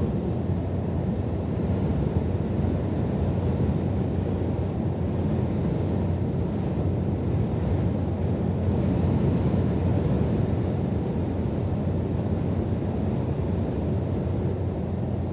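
Steady, deep drone of a Scania R500 truck driving along, with engine and road noise running evenly and no change of pace.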